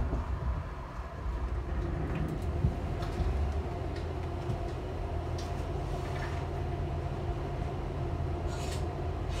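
ÖBB Nightjet sleeping car running on the rails, heard from inside the car. It is a steady low rumble with a constant hum, broken by a few short clicks and a brief high hiss near the end.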